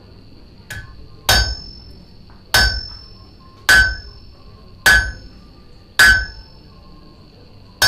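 Blacksmith's hammer striking metal on an anvil: one light tap, then five heavy ringing blows about a second apart, with another blow right at the end.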